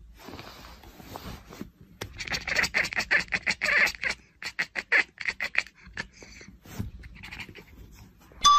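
Grey tabby cat hissing: a fast string of short, sharp hisses from about two seconds in until nearly six seconds, with a few more later.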